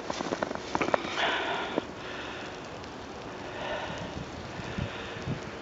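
A sharp sniff about a second in and a softer breath near the middle, over footsteps in deep snow with scattered small crunches and a few low thuds near the end.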